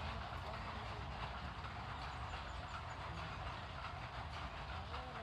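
Steady rush of water pouring and splashing onto plant leaves, with a strong low rumble under it. A bird gives a short run of faint, high chirps about two seconds in.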